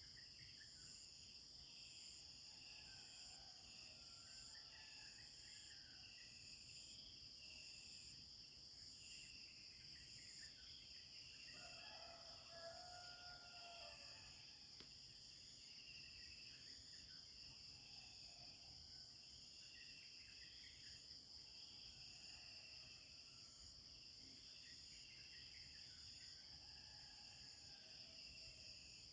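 Faint steady chorus of insects trilling, with small birds chirping over it again and again. A lower bird call stands out about twelve seconds in.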